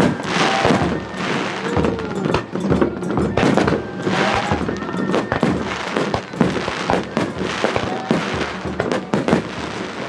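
Aerial fireworks launching and bursting in rapid succession, with dense crackling, over background music.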